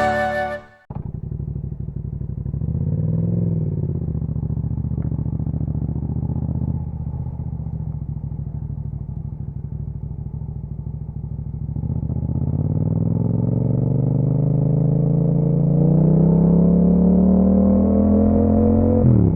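Yamaha MT-07's 689 cc parallel-twin engine through an Akrapovic exhaust: idling with a quick blip of the throttle a few seconds in, then pulling away with the pitch climbing steadily, and a sudden drop near the end as it shifts up before climbing again.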